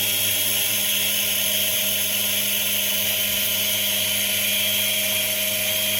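Treadmill's brushed DC motor running steadily on the bench at about 115 V, a constant whine with a high hiss over it. It runs normally, with no problems.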